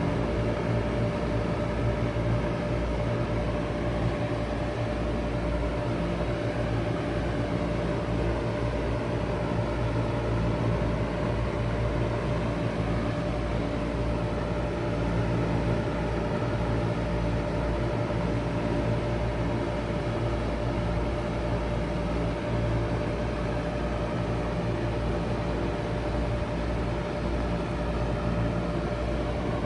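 A 2001 Bard 5-ton wall-hung heat pump running steadily in cooling mode, its compressor and outdoor fan giving a constant hum with one steady tone above it.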